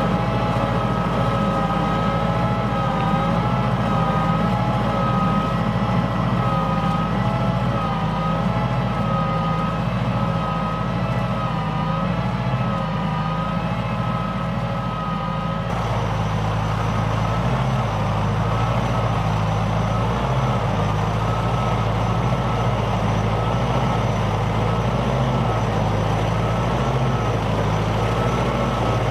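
LS XR4040 compact diesel tractor running steadily under load while pulling a plow, with a whine above the engine note that wavers in pitch. The sound changes abruptly about halfway through.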